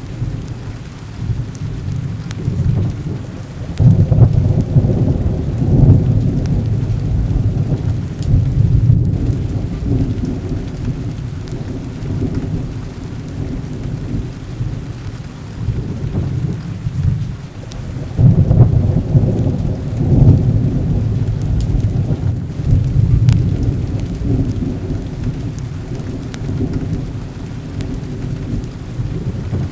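Heavy rain falling steadily, with two long rolls of thunder, the first building about four seconds in and the second about eighteen seconds in.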